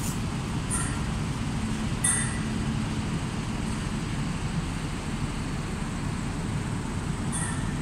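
Irish Rail InterCity Railcar diesel multiple unit pulling slowly away along the platform, its engines and running gear giving a steady low rumble. Brief high squeaks come about one, two and seven seconds in, the one at about two seconds the loudest.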